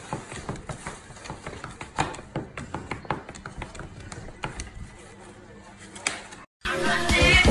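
Irregular light clicks and taps, a few each second, as hands handle a plastic container. After a brief dropout near the end, upbeat electronic music starts loudly.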